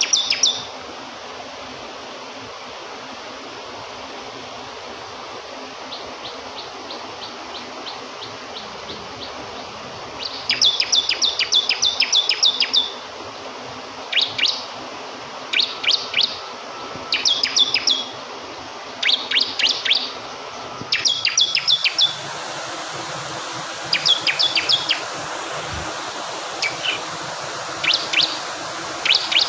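Bar-winged prinia (ciblek kristal) singing in rapid bursts of high, quickly repeated notes: one long burst, then short phrases every second or two. Under it runs steady rushing flowing water.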